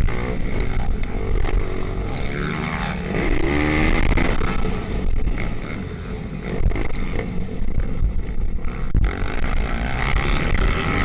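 Pit bike engines running hard in a race, the revs sweeping up about two to four seconds in. The level dips briefly around six seconds, then the engine noise picks up again.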